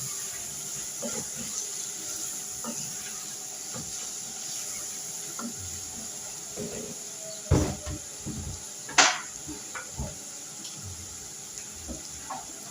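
Scattered light knocks and clinks of objects being handled, over a steady hiss, with two louder knocks about halfway through.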